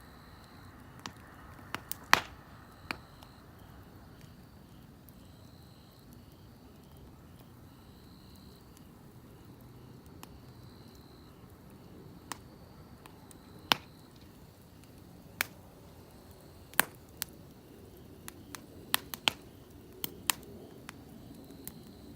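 Wood fire crackling: sharp, irregular pops and snaps over a low steady hiss, the pops coming closer together near the end.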